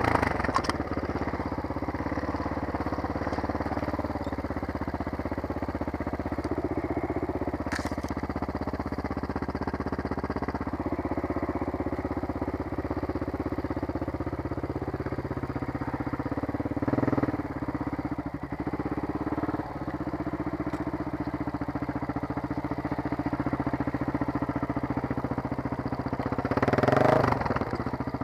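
Dirt bike engine running at low, steady revs, rising briefly twice, the second time more strongly near the end.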